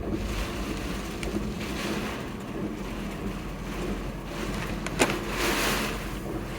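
A steady engine hum under a rushing noise that swells and fades, with a sharp click about five seconds in.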